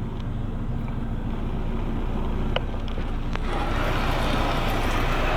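Washworld High Velocity automatic car wash machinery running around the truck, heard from inside the cab as a steady low hum with a couple of light clicks. A rushing hiss builds up about three and a half seconds in.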